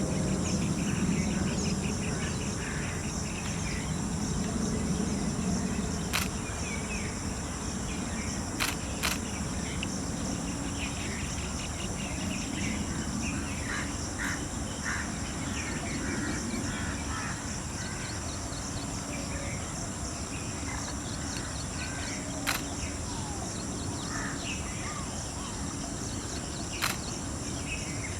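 Birds chirping on and off over a steady high-pitched drone of insects, with a low rumble beneath and a few sharp clicks scattered through.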